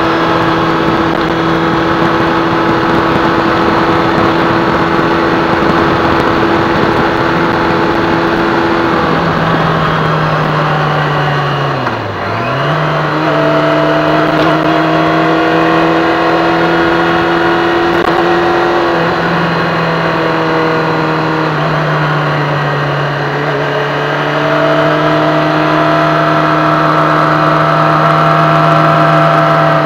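Engine of the vehicle carrying the camera, running at a steady pitch under light throttle at low speed. About twelve seconds in the pitch drops sharply and climbs back as the driver lifts and gets back on the throttle.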